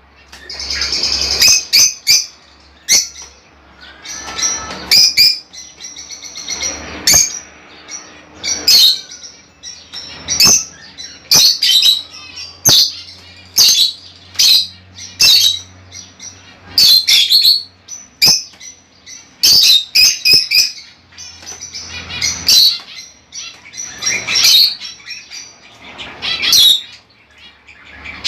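Budgerigars chirping: many short, sharp calls one after another, with a faint low hum beneath.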